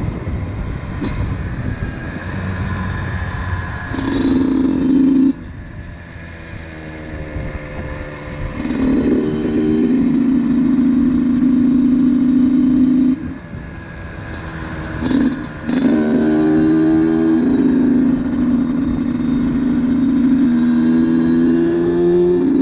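Honda CR125's single-cylinder two-stroke engine under way, revving up and easing off. The throttle closes about five seconds in and again around thirteen seconds, and the engine pulls back up each time.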